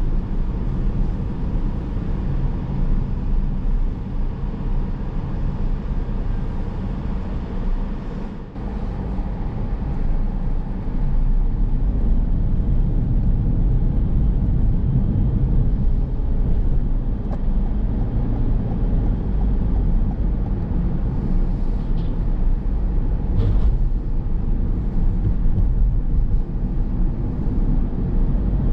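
Car driving on city roads: a steady low rumble of tyres on the road and the engine, with a brief drop in level about eight seconds in.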